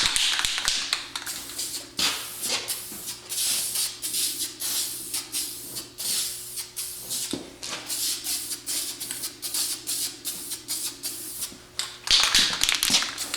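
An aerosol spray-paint can being used to touch up engine paint: the mixing ball rattles in a long run of repeated clatters as the can is shaken, and paint sprays out with a hiss at the start and again about twelve seconds in.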